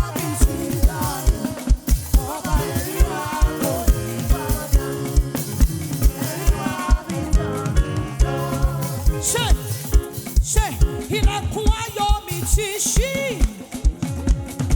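Live African gospel praise music: a voice singing a melody over a band, with held chords and a steady kick-drum beat.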